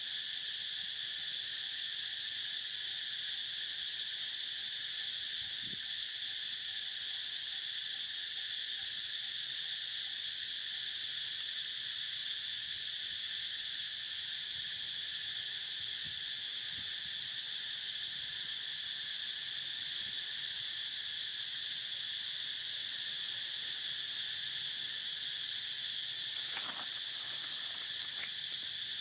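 Steady chorus of insects, a continuous high-pitched trilling drone that does not change. Near the end two brief faint calls stand out from it.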